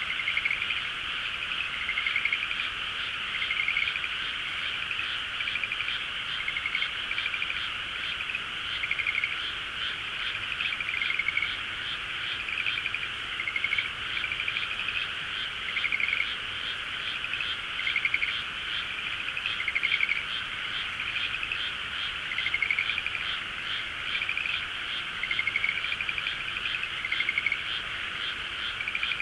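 A dense chorus of many frogs calling at once: a continuous noisy churring, with single pulsed calls standing out about once a second. It is loud and unbroken throughout.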